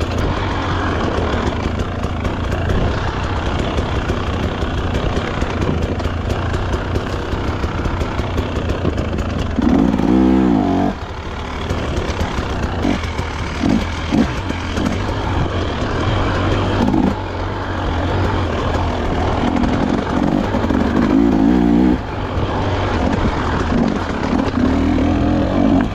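Dirt bike engine running and revving as the bike is ridden along a trail. The engine note rises and falls in spells, once about ten seconds in and again through the last several seconds.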